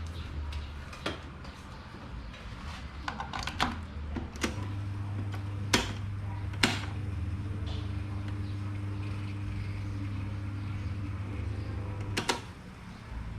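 Electric fan's motor humming steadily for about seven and a half seconds, starting with a click about four and a half seconds in and stopping with a click near the end. Scattered clicks and knocks of parts being handled come before and during the hum.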